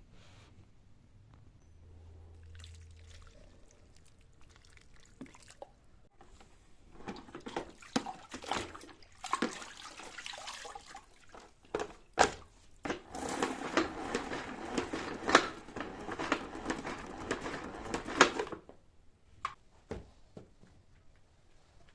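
Water running and splashing, with clicks and knocks of things being handled, for about eleven seconds from about seven seconds in. Before and after are only scattered light clicks.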